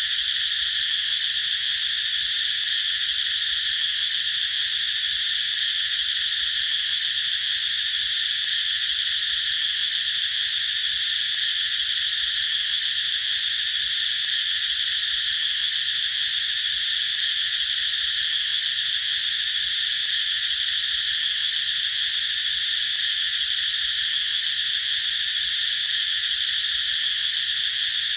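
Cicadas singing in chorus: a continuous, even, high-pitched drone with no breaks.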